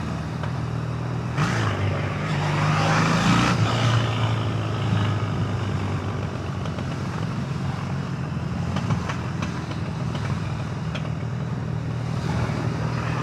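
Triumph Bonneville's parallel-twin engine running while riding in traffic, its note swelling and rising a little about two to four seconds in, then settling to a steady drone, with road and wind noise over it.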